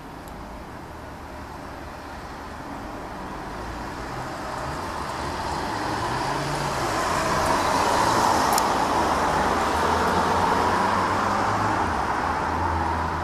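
Boeing 767-300ER twin-engine jet airliner passing overhead: a steady rushing engine noise that swells over several seconds, is loudest about two-thirds of the way through, then eases slightly.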